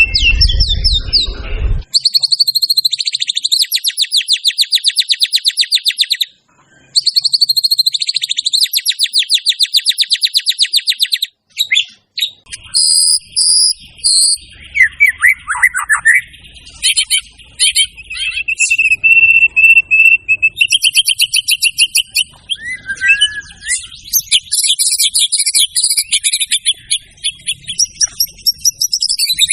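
White-rumped shama (murai batu) singing a varied, mimicry-rich song: two long, very rapid rattling trills, then a string of quick chips, sliding whistles and a held whistle about two-thirds in. A low rumble sits under the first two seconds.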